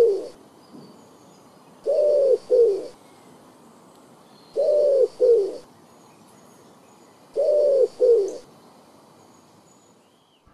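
Dove cooing: repeated low two-note coos, a longer note followed by a shorter one, about every two and a half seconds.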